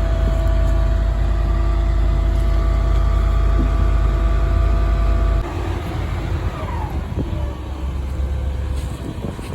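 Bucket truck's 7.1-litre gas engine running with its hydraulic system working, a steady whine over the engine's rumble. About five seconds in the whine and rumble drop off sharply, with a brief falling tone, and the engine carries on more quietly.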